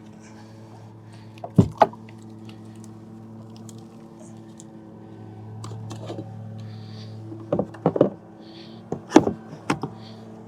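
Several hard clunks and knocks, in pairs and clusters, over a steady low hum: the kayak's pedal propeller drive being dropped and seated into its well in the plastic hull.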